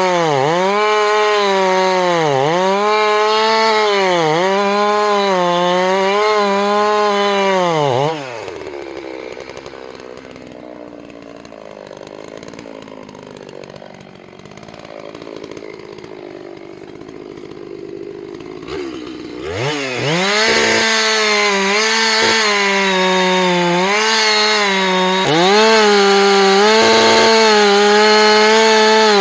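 Gas chainsaw running at full throttle and cutting wood, its engine pitch dipping and recovering about once a second as the chain bites. About eight seconds in it drops off to a much quieter stretch of roughly ten seconds, then revs up again near the twenty-second mark and goes back to cutting.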